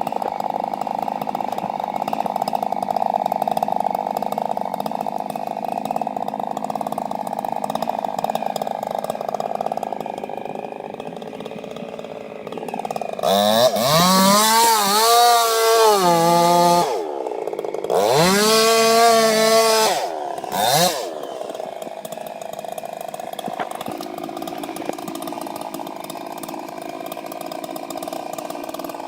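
Two-stroke chainsaw engine running steadily, then revved up three times, the pitch rising with each rev, the last one short, before settling back to idle.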